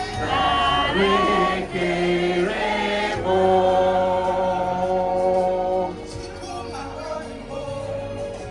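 Gospel music with choir singing. A long held chord runs from about three to six seconds in, then the music drops lower.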